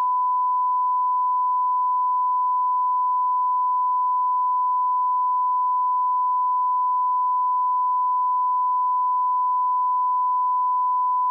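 Steady 1 kHz sine-wave test tone at the −18 dB lineup level, one unbroken pure pitch at constant loudness.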